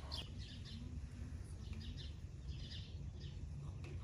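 Small birds chirping, many short high calls coming one after another, over a steady low rumble of background noise.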